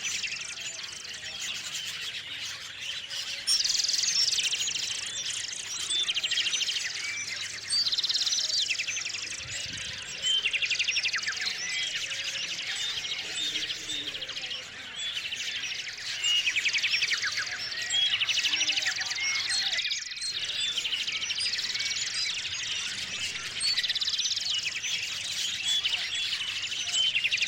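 A chorus of small songbirds chirping and singing, with loud trilled song phrases repeating every few seconds over constant lighter chirps.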